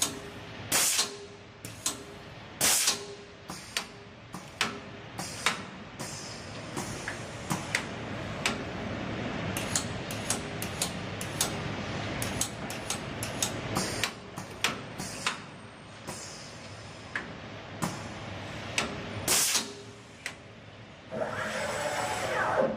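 Maggi GT800 CNC multi-spindle boring machine at work: sharp clacks and knocks at irregular intervals from its moving heads and clamps, over the running noise of its drill spindles boring a wood panel. A short, louder pitched passage comes near the end.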